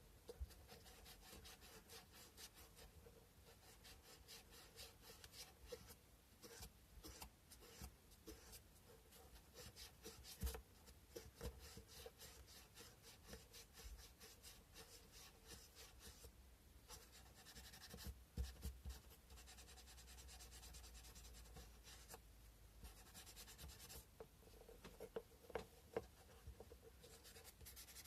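Sandpaper rubbed by hand against a carved cow-bone fish hook: faint, quick scratchy strokes, with a few short pauses.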